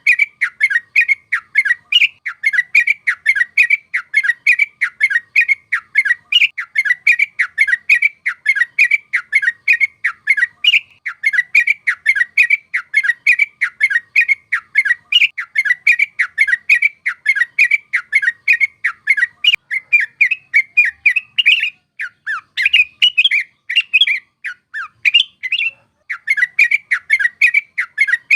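Yellow-vented bulbul (trucuk) calling in a fast, continuous chatter of short notes, about four a second. For a few seconds past the middle the notes turn more varied and broken before the rapid chatter resumes near the end.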